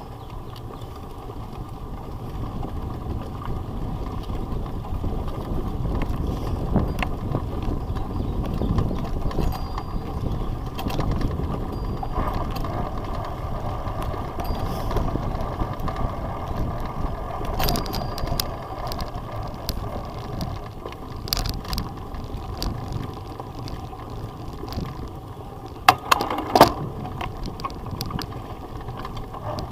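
Bicycle being ridden over rough ground: a steady rumble of tyres and frame with scattered rattles and clicks, and a couple of sharp knocks near the end.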